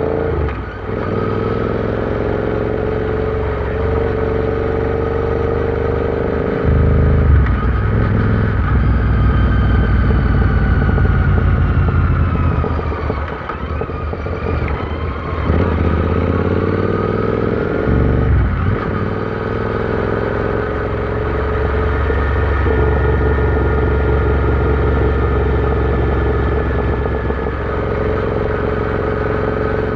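Royal Enfield Interceptor 650's parallel-twin engine running while riding. Engine speed rises and falls, with several gear changes and easing of the throttle along the way.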